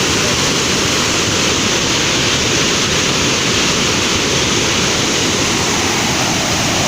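Loud, steady rush of floodwater pouring from a dam's spillway.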